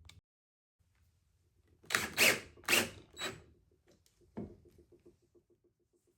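Clattering and knocking of metal bike parts being handled, several loud knocks close together, then a run of quick light ticks, about seven a second, that fades away.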